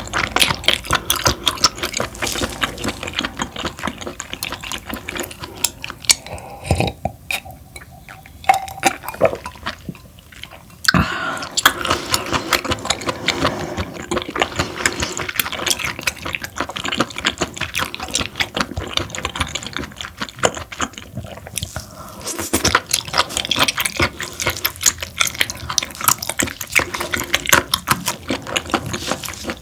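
Close-miked wet chewing of parboiled webfoot octopus: irregular squelching, smacking and biting clicks, with a brief lull about a third of the way in before the chewing picks up again.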